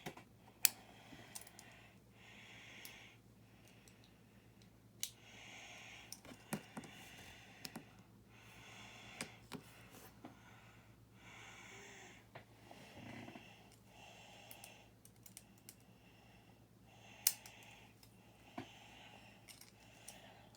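Small plastic building-brick parts clicking and tapping as they are handled and pressed together, in scattered sharp clicks. Soft breathing close to the microphone comes every few seconds.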